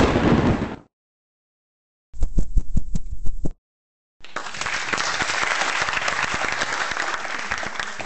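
Applause: a short patter of separate claps, then, after a silent gap, a steady round of applause from many hands. Before that, the tail of a loud noisy burst cuts off in the first second.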